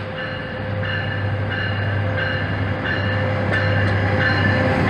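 Commuter train approaching and passing below, its low rumble growing steadily louder, while a bell rings at an even pace of about three strokes every two seconds.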